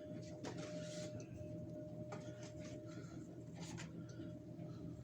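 Steady low background hum with a faint, thin steady tone above it, broken by a few light clicks and rustles.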